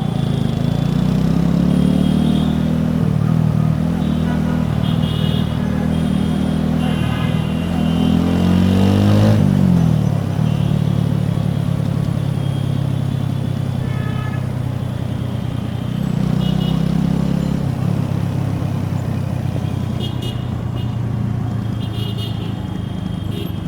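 Exhaust note of a TVS Apache RTR 4V's single-cylinder four-valve engine, recorded close to the exhaust outlet while riding. It pulls up in revs to a peak about nine seconds in, drops off sharply, then settles into steady cruising with a brief swell in revs a little past halfway.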